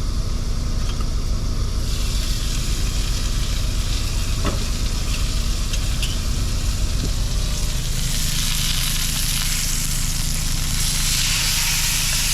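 New York strip steak sizzling in a hot frying pan, the sizzle growing louder about eight seconds in, over a low steady hum.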